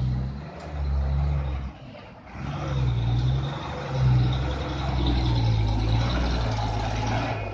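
Truck engine running under load, its low rumble dropping briefly about two seconds in and then picking up again.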